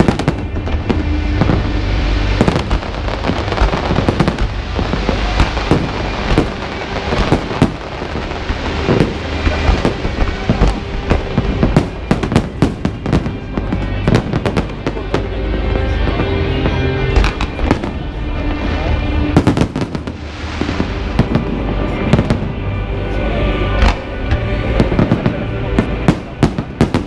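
Fireworks shells bursting one after another in dense, rapid succession with sharp bangs and crackle, over music playing alongside the display.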